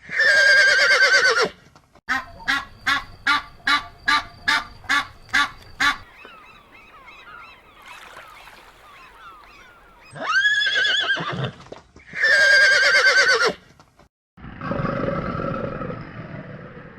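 A horse whinnying several times, each a loud quavering call that falls in pitch. In between, a waterfowl gives a run of about ten short, evenly spaced calls, followed by a few seconds of faint high chirps.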